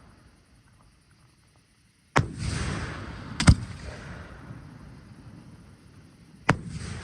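Fireworks going off: quiet for about two seconds, then a sudden boom with a long fading hiss, a loud sharp bang about a second later, and another sharp bang near the end, each trailing away.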